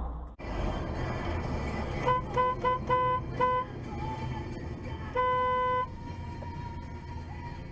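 Car horn honking: five quick short honks, then a single longer honk about a second and a half later, over steady road noise.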